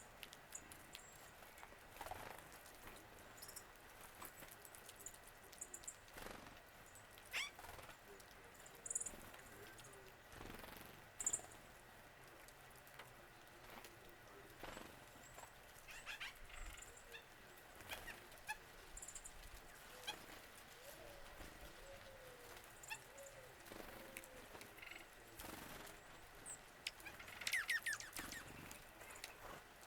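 Faint wild birds calling: scattered brief high chips, and a quick run of falling notes near the end.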